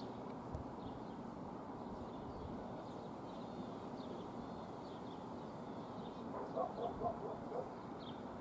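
Outdoor ambience: a steady low background noise with small birds chirping faintly over and over, and a short cluster of louder, lower chirps about six and a half to seven and a half seconds in.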